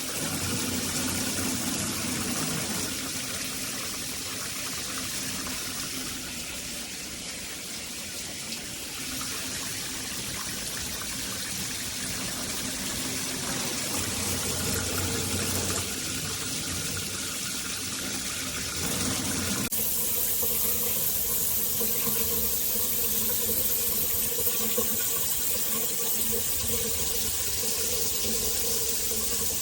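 Water spraying steadily from a rain shower head, a continuous hiss; the character of the spray changes abruptly about twenty seconds in.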